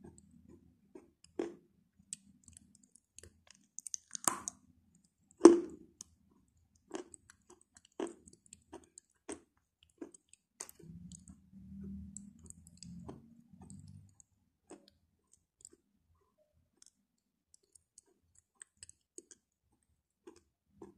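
Close-miked chewing of chalk: separate crunches and mouth clicks about once a second, the loudest about five and a half seconds in, thinning to sparse faint mouth clicks in the second half.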